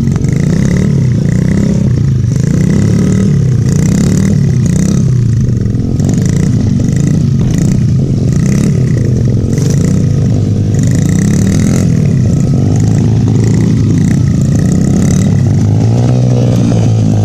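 Dirt bike engine running loud and close, its pitch rising and falling again and again as the throttle is opened and eased. It settles to a steadier, lower note near the end.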